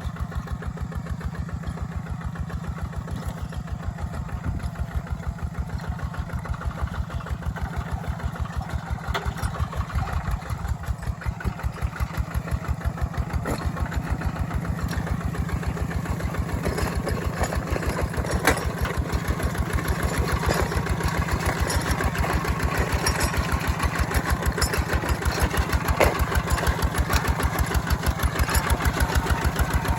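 Walking tractor's engine chugging steadily under load while ploughing, slightly louder in the second half, with a few sharp metallic clanks.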